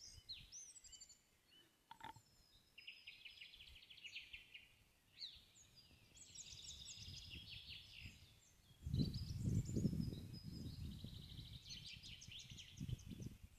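Small songbirds singing repeated trills and chirps. About nine seconds in, a louder low rumbling noise joins them for a few seconds.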